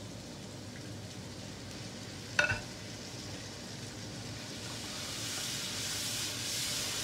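Onion and spice masala frying in oil in a nonstick pan, with a little water just added so the spices don't burn. A sharp knock comes about two and a half seconds in, then a spatula stirs the pan and the sizzle grows louder.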